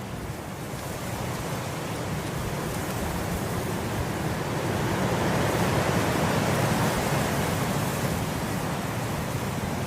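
Wind blowing through grass, a steady rushing that swells into a gust through the middle and eases off again near the end.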